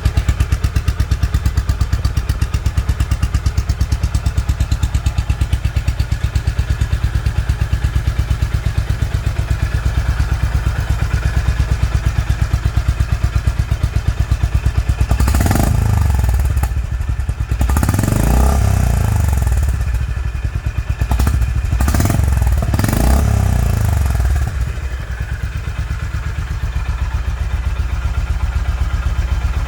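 Honda CB350 RS single-cylinder engine idling through its exhaust with an even, steady beat. About halfway through, the throttle is blipped about four times in quick succession, and then it settles back to idle.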